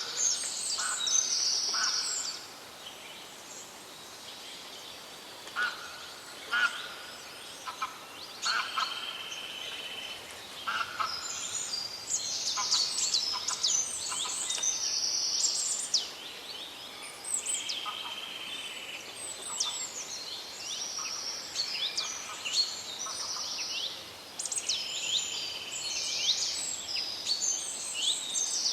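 Several birds singing and calling in a forest, with many overlapping high chirps, short whistled notes and quick falling sweeps that come in clusters with brief lulls, over a faint steady background hiss.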